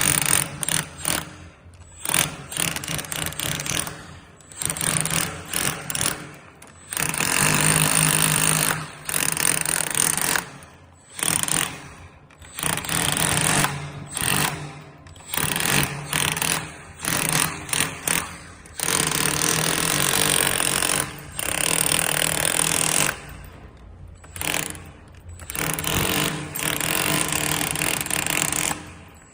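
Electric chipping hammer with a 40 mm scaling chisel, chiselling off tiles. It hammers in repeated bursts, from under a second to several seconds long, with short pauses between.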